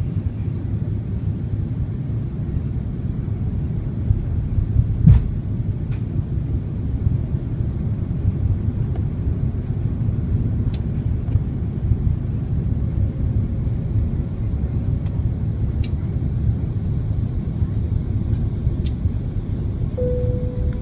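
Steady low rumble of engines and airflow inside a jet airliner's cabin on approach to landing. One sharp knock comes about five seconds in, and a brief steady tone sounds near the end.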